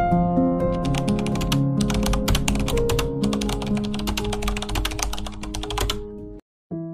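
Rapid typing key clicks, a sound effect for on-screen text being typed, over gentle background music. The clicking starts about a second in and stops near the end, where all sound briefly cuts out.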